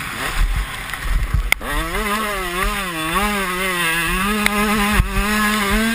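Motocross bike engine revving, its pitch rising and falling repeatedly as the throttle is worked, getting loud from about a second and a half in.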